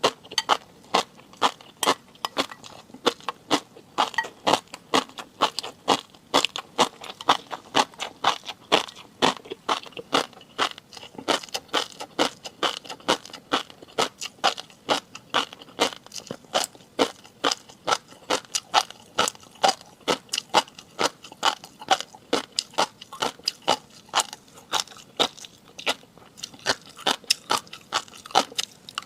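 Close-miked eating: steady crunchy chewing and biting, with sharp crisp clicks about three times a second.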